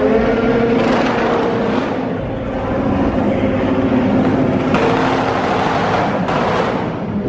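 Car engines revving over a steady engine drone, with several surges of exhaust noise: about a second in, near two seconds, around five seconds and again from about six to seven seconds.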